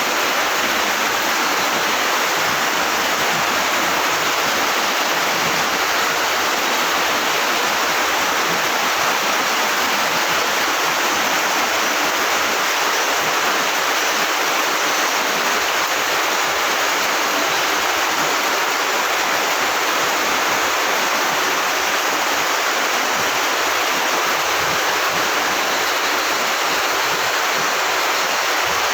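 Heavy rain pouring down: a steady, dense hiss that holds at an even level.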